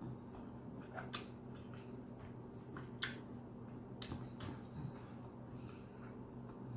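Toothless chewing of steak: soft, wet mouth clicks and smacks, a few of them sharp, over a steady low hum.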